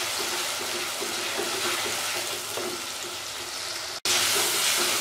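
Chopped onion and tomato sizzling in hot oil in a clay karahi, stirred with a wooden spoon, as the tomatoes cook down until soft. There is a brief break about four seconds in, after which the sizzling is louder.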